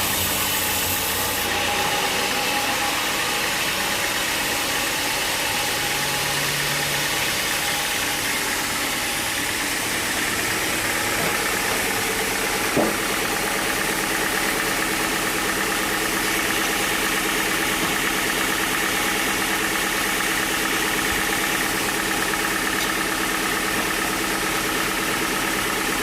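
An engine running steadily at a constant speed, with a single short knock about halfway through.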